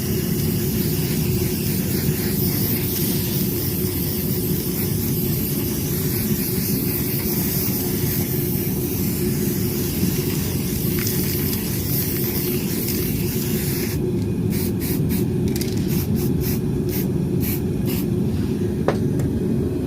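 Gas torch burning steadily, heating a metal pipe so it can be bent; a low, even rushing noise. In the last few seconds there is a run of sharp clicks or ticks.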